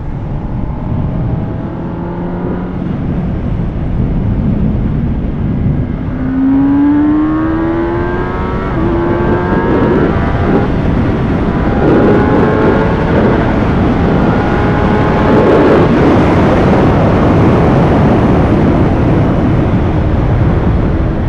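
Kawasaki ZX-10R superbike's inline-four engine pulling hard under acceleration, its pitch rising in several runs as it climbs through the gears, over steady wind noise on the microphone.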